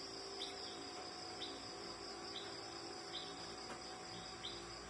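Steady high-pitched insect trilling with a short chirp about once a second, over a faint low hum.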